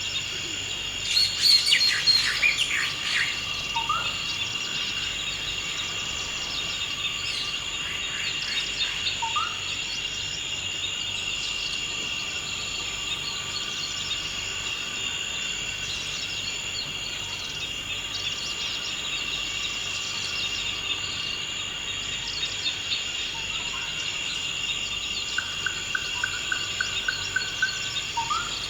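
Forest ambience: a steady, high insect drone with birds calling over it. A loud burst of calls comes about a second in, a few short rising chirps follow through the middle, and a rapid trill of repeated notes comes near the end.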